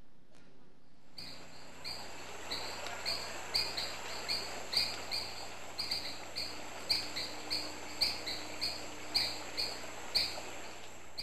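Natural outdoor ambience: a bird chirping over and over, about two or three short chirps a second, over a steady hiss. It starts about a second in and cuts off abruptly at the end.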